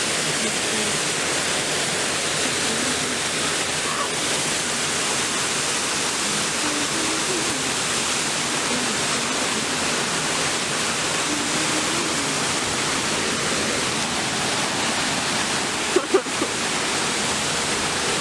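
Waterfall rushing steadily, a dense, even roar of falling water. Near the end come a few short knocks, like the microphone being bumped.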